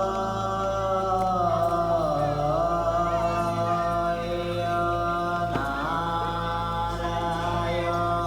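Chanting: a voice holding long notes that slide slowly from one pitch to the next, over a steady low drone, with a single short click about five and a half seconds in.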